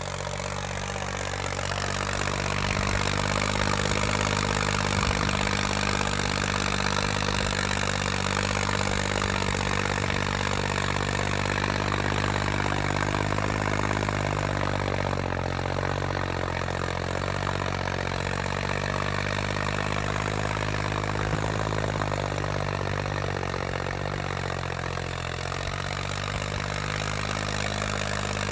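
John Deere 5310 tractor's diesel engine running steadily under load, its pitch sagging and wavering slightly about halfway through before settling again.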